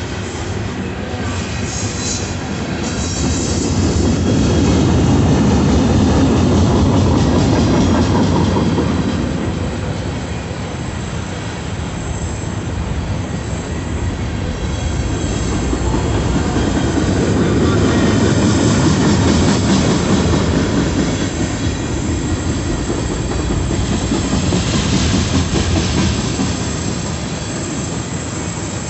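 Freight cars of a mixed freight train rolling steadily past at a grade crossing: a continuous rumble of steel wheels on rail that swells louder twice as the cars go by.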